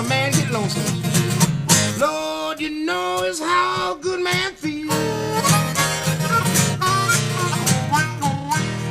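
Acoustic blues on acoustic guitar: plucked accompaniment under a lead line of bent, sliding notes, closing the song. A final chord rings out and fades at the end.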